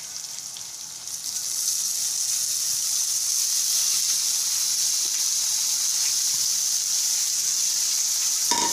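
Boiled cluster beans dropped into a kadai of hot oil and tempering, sizzling as they fry. The sizzle swells about a second in, then holds as a steady hiss.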